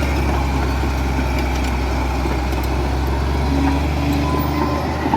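Heavy diesel engine of earthmoving machinery running steadily, a low continuous drone. Faint higher steady tones join about three and a half seconds in.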